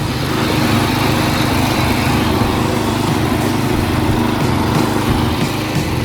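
Small lawn-tractor engine running steadily at a constant speed.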